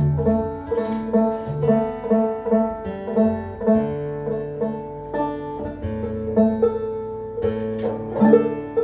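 Banjo picking a steady repeating pattern of ringing single notes.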